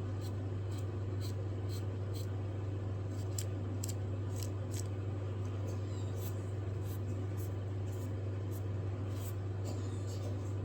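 Light, short scratchy strokes, about two or three a second, as a rag rubs oil into wooden knife handle scales, over a steady low hum.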